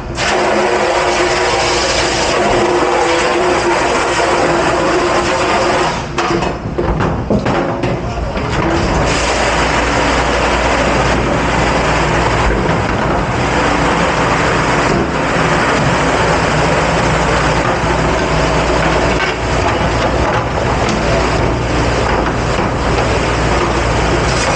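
Loud, steady machine noise of a commercial dishwashing machine running in a kitchen dish pit, a dense rushing hiss over a low hum, easing briefly about six seconds in.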